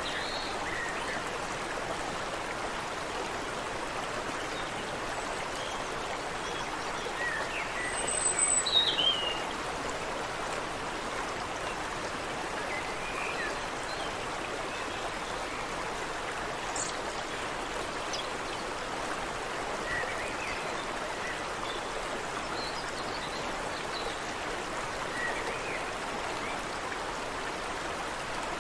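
Steady babbling of water running in a shallow creek, with scattered short bird chirps over it and a louder burst of chirps about eight seconds in.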